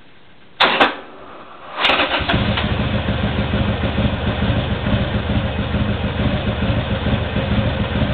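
Harley-Davidson Sportster 1200 Custom's air-cooled V-twin being started on the electric starter in a hard start: a short burst with a click about half a second in, then a second try about two seconds in, after which the engine turns over with a steady rhythmic chugging for about six seconds.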